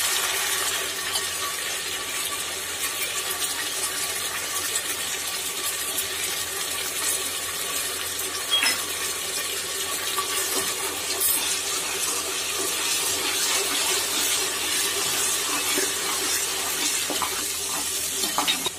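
Onion and ginger-garlic paste sizzling steadily in hot mustard oil, with a few light clicks of a metal spoon stirring against the aluminium pressure cooker.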